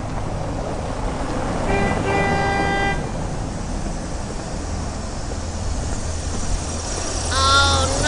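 Toy auto-rickshaw rolling over concrete as it is pushed by hand, with a short and then a longer horn toot about two seconds in. A wavering pitched sound comes near the end.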